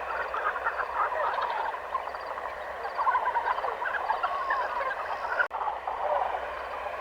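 A dense chorus of many animals calling at once, short overlapping chattering calls, with a sudden brief break about five and a half seconds in.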